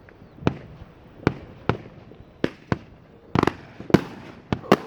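Fireworks going off: about ten sharp bangs at irregular intervals, several in quick succession in the last second and a half, the loudest about four seconds in.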